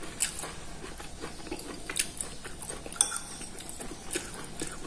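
Close-up chewing and lip-smacking of a person eating, in irregular small wet clicks. About three seconds in, a metal spoon clinks sharply against the ceramic plate with a short ring.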